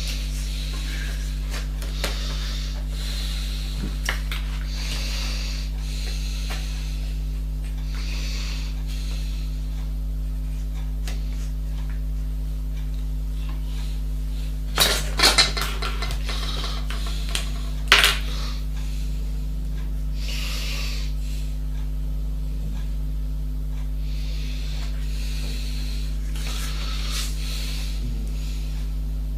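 Hard objects being handled: intermittent rubbing and shuffling, and a cluster of sharp clacks about halfway through with another a few seconds later, over a steady low electrical hum.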